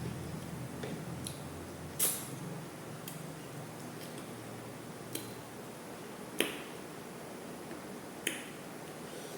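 Close-up eating sounds: a person chewing, with sharp wet clicks and smacks of the mouth every second or two, the loudest about two seconds in and just after six seconds.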